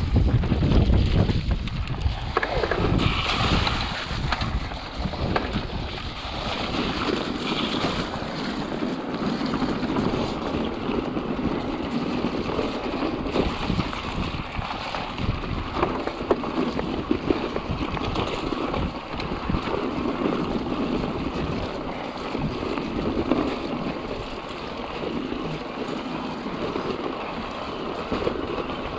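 Mountain bike descending a wet, slippy trail at speed: wind rushing over the camera microphone with steady tyre noise and many small knocks and rattles from the bike over rough ground.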